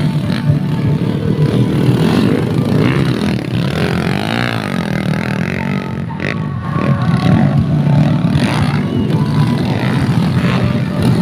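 Dirt bike engines running and revving on a race track, one engine rising and then falling in pitch about four seconds in.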